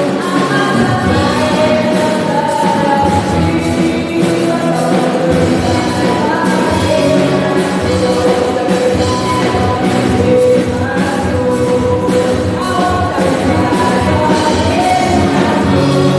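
Live gospel worship music: singers holding long sung notes over a full band with steady percussion.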